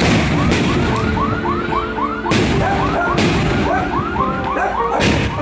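Fireworks going off in loud sharp bangs, about four of them, while a car alarm sounds a rapid repeating whoop, about four a second, underneath.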